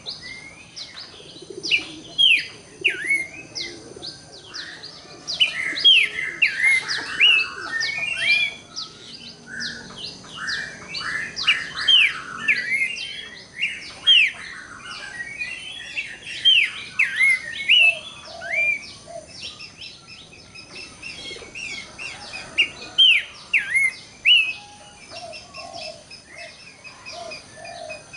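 Pelanduk semak (Horsfield's babbler) singing: quick, hooked whistles that fall in pitch, repeated over and over, mixed with bursts of chattering notes. A thin steady high tone sits underneath.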